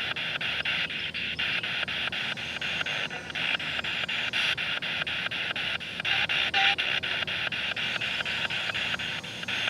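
Spirit box, a radio sweeping rapidly through stations, giving a steady static hiss chopped into clicks several times a second, with brief snatches of broadcast sound now and then.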